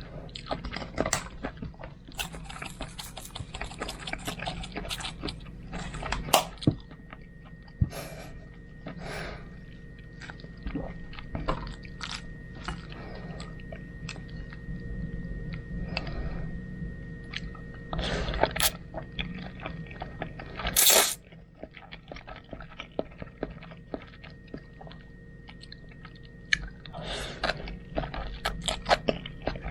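Close-up eating sounds of someone eating home-cooked spaghetti: chewing and mouth noises with many small clicks, and one louder burst about two-thirds of the way through.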